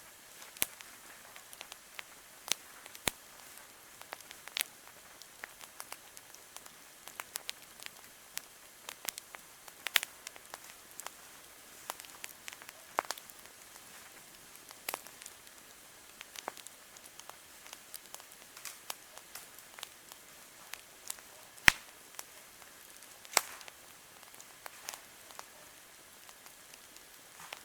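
Wood fire crackling: irregular sharp pops and snaps, a few much louder than the rest, over a faint steady hiss.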